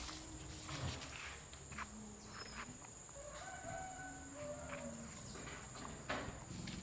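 Quiet rural background: a few short, faint animal calls, with a steady high-pitched whine and a few light clicks.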